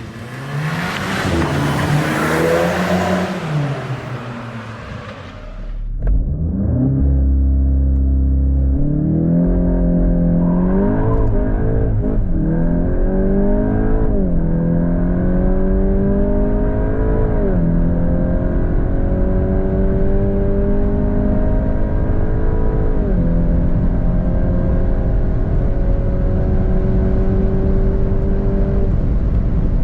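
VW Golf 8 GTI Clubsport Edition 45's turbocharged four-cylinder with Akrapovic exhaust accelerating hard through the gears. After a noisy, hissing first few seconds, the engine note climbs and drops back at each upshift about six times, each gear lasting longer than the last, the final one a long slow rise.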